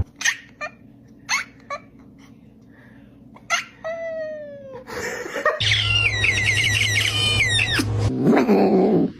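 Cat vocalising: a few short sharp chirps, then a falling meow, then longer wavering yowls over a steady low hum.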